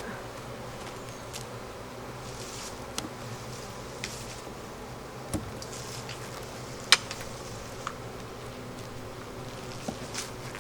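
A honeybee colony buzzing steadily in an opened hive, a strong, well-populated colony. A few short sharp clicks sound over the hum, the loudest about seven seconds in.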